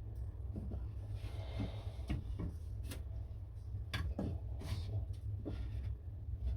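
Scattered light knocks and clicks of objects being handled, about a dozen at uneven spacing, over a steady low hum.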